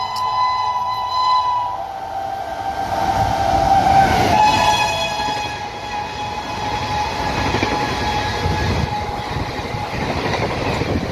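Indian Railways WAP-7 electric locomotive hauling the Garib Rath Express sounds its air horn as it approaches, then sounds it again about four seconds in as it passes at speed. The coaches then rush past with a steady rumbling wheel noise.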